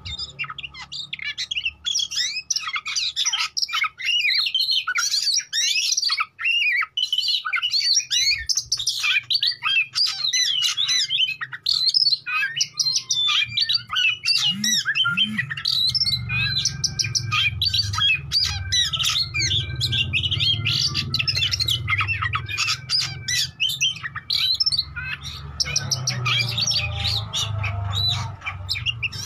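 Oriental magpie-robin (kacer) in full song: a fast, unbroken run of varied whistles, chirps and harsh notes. A low hum runs under the second half.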